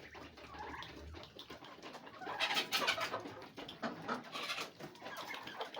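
Poultry calling in a pen, with the loudest bursts of calls about two and a half and four and a half seconds in.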